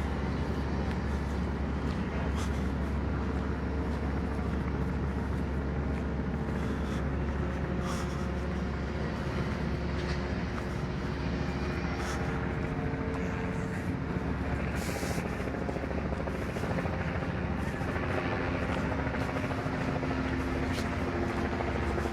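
Fire apparatus engines running steadily, a low unbroken drone with a faint hum, and a few faint clicks scattered through it.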